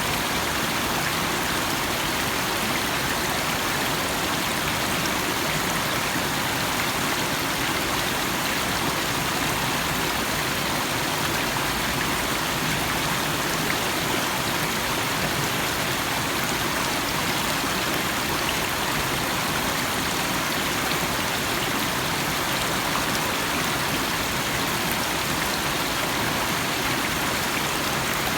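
Small stream running over stones: a steady, even rush and babble of water.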